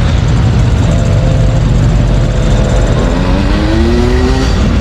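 Classic car engines rumbling steadily at close range, with one engine's pitch rising as it accelerates about three seconds in.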